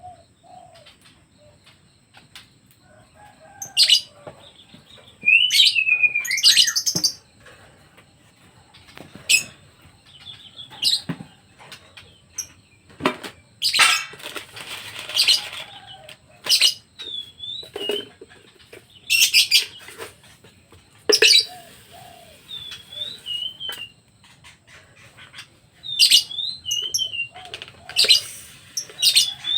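Pet birds fluttering their wings in repeated short bouts, with one longer flurry midway, and giving short chirps in between.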